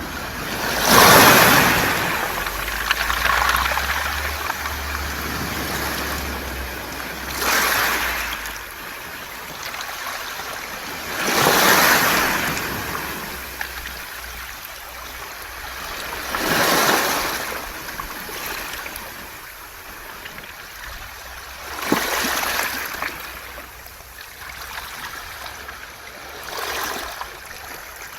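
Sea waves washing over a beach of smooth round pebbles (mongdol), six surges about every four to five seconds. Each wave swells in a rush of water and pebble clatter, then fades back to a low hiss.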